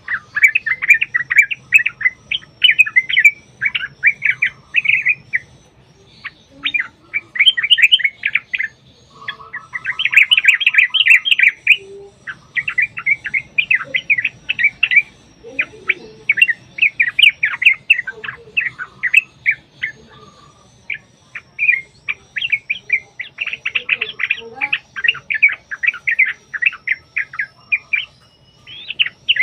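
Yellow-vented bulbul (trucuk) singing in long, rapid runs of chattering notes, phrase after phrase with short pauses between.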